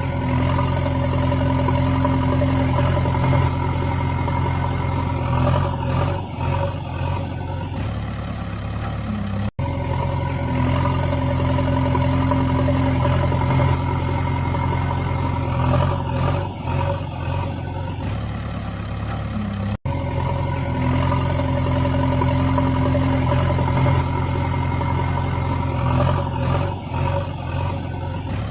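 A vehicle engine running steadily, played as a looped recording: the same roughly ten-second stretch repeats, with a brief break about every ten seconds.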